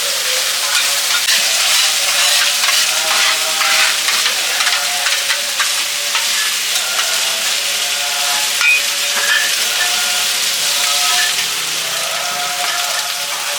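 Seafood omelette frying in hot oil in a pan, a steady loud sizzle with many small crackles.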